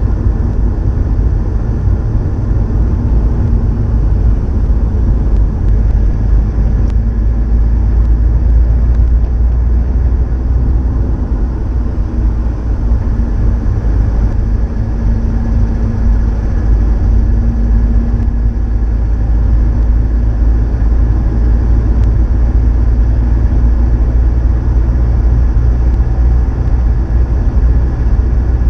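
Subaru Impreza WRX STI (GDB) EJ20 turbocharged flat-four engine running steadily through its STI Genome muffler. The sound sits mostly low in pitch, with no revving or sudden changes.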